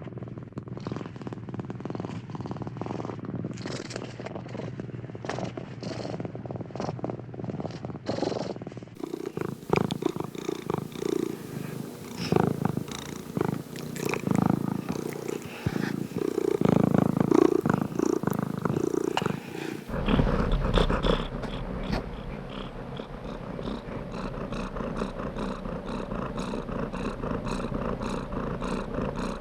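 Domestic cat purring steadily in rhythmic pulses. The recording changes abruptly twice, about a third and two-thirds of the way through, to another purring clip with a different tone, the last one with a deeper rumble.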